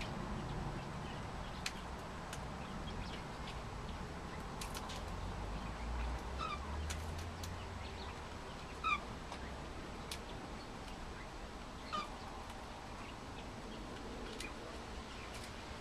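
Young cockatiels giving a few short chirping calls, three of them standing out about a third, half and three-quarters of the way through, with faint scattered clicks over a steady low background rumble.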